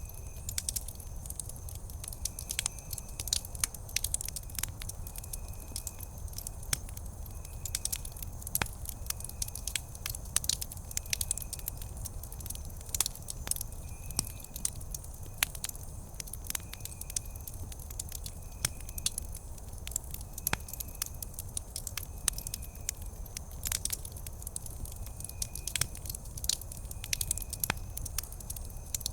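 Wood campfire crackling, with many sharp irregular snaps and pops over a low steady rumble of the burning fire. A faint short high chirp repeats about once a second behind it.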